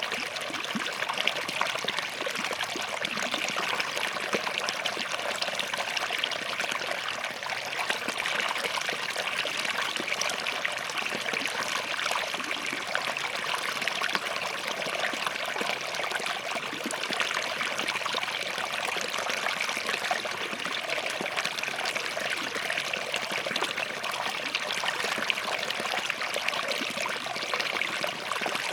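Small stream of water running and trickling over rocks, a steady splashing babble.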